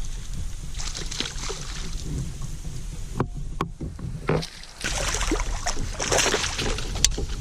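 Water sloshing and slapping against a kayak hull with irregular knocks and clatter, and wind buffeting the microphone as a low rumble.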